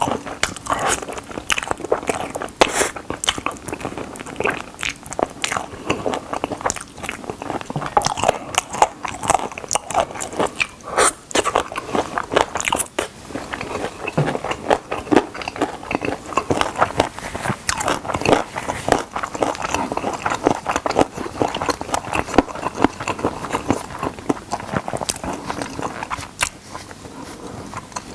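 A person biting and chewing Korean fried chicken drumsticks close to the microphone: a dense run of crisp crunches and crackles from the coating, mixed with chewing, getting quieter near the end.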